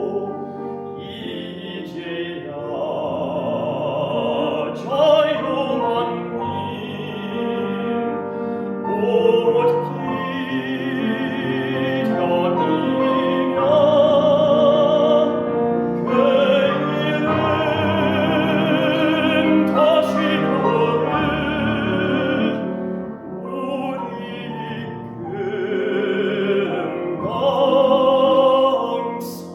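Classical baritone singing in operatic style with wide vibrato, accompanied by piano, in phrases with short breaths between them.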